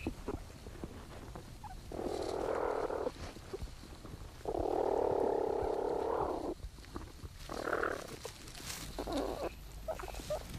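Platypuses in their nesting chamber, picked up by a microphone inside the burrow. There are four croaky, buzzing bursts with no clear pitch; the second, about halfway through, is the longest and loudest at about two seconds.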